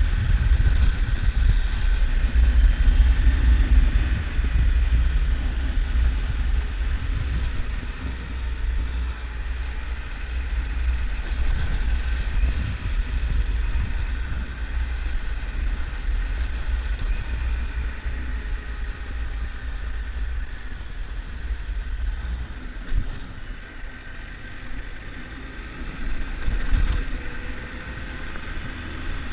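Triumph Tiger 1200's three-cylinder engine running as the motorcycle is ridden, under a heavy wind rumble on the camera microphone. It is loudest in the first few seconds.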